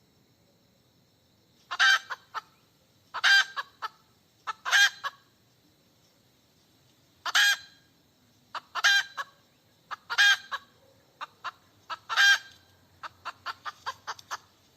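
Hen cackling: about seven loud squawking calls spaced a second or two apart, each trailed by a few short clucks, ending in a quick run of short clucks.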